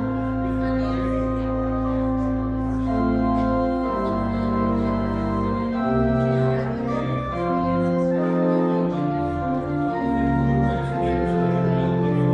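Organ playing slow sustained chords, the held notes moving to new chords every second or two over a deep bass.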